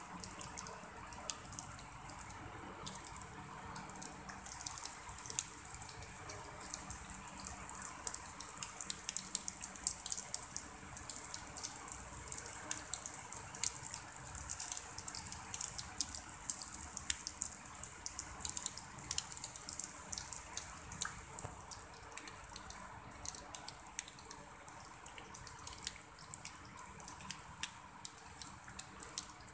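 Light drizzle falling on a shallow pond and wet grass: a steady hiss of many small drop ticks.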